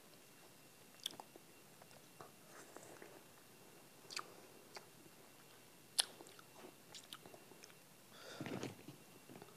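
Biting and chewing on a frozen orange ice-cream bar on a stick, quiet mouth sounds with a few sharp clicking bites, the sharpest about six seconds in. Near the end comes a louder, longer crunching burst.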